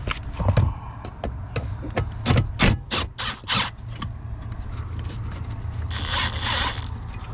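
Hand socket ratchet working a 10 mm bolt loose from a metal bracket: irregular clicks and knocks for the first few seconds, then a second-long run of fast, dense ratcheting near the end.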